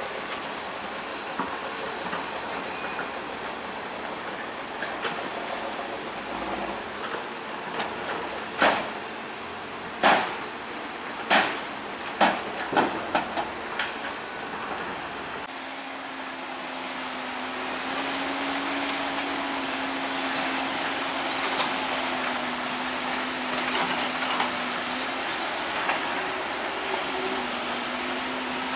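Heavy earthmoving machinery working with a steady mechanical rumble. About a third of the way in comes a quick run of loud metal clanks and bangs, and from about halfway a steady low engine note takes over.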